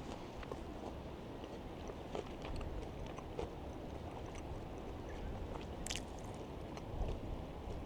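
Someone chewing crisp fried food, a spring roll, with small crunching clicks and one sharper crunch about six seconds in, over a steady low rumble.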